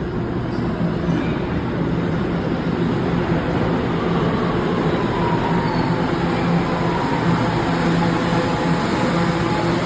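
New York City subway train pulling into the station over a steady rumble of wheels on track. Partway through, a whine falls in pitch as the train slows.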